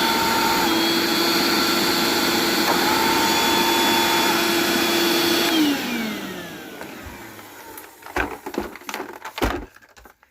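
Eureka The Boss SuperLight vacuum cleaner running with a steady motor whine. A little past halfway it winds down, its pitch falling as the motor coasts to a stop. A run of knocks and clatter follows near the end.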